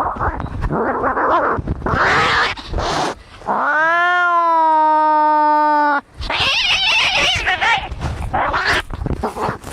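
Cats fighting, with harsh, ragged yowls and snarls. About three and a half seconds in, one long drawn-out yowl rises and then holds a steady pitch for over two seconds, followed by a harsh, hissing cry.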